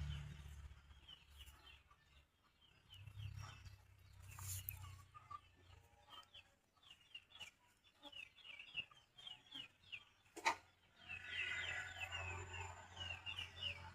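Faint bird chirping, many short quick chirps repeated throughout, with a single sharp click about ten and a half seconds in.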